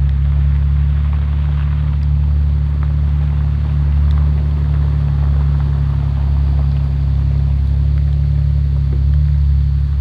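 A vehicle running, with a steady low rumble.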